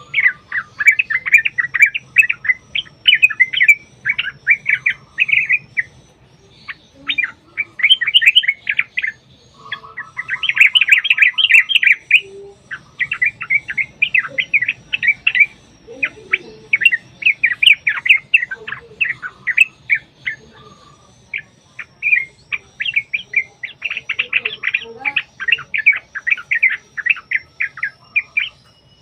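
Yellow-vented bulbuls singing in long, rapid chattering runs of bubbly chirps, phrase after phrase with brief pauses, and a short lower rattle about ten seconds in.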